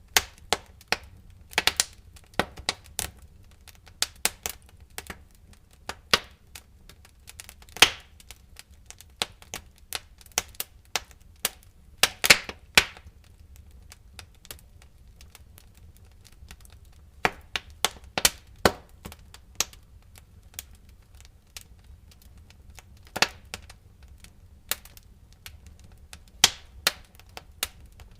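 Wood fire crackling: irregular sharp pops and snaps of burning firewood over a low, steady rumble, with a dense flurry of pops about twelve seconds in and a few quieter stretches.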